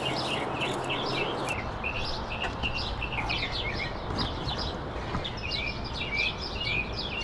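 Small birds chirping rapidly and continuously, several short calls a second, over a steady background noise.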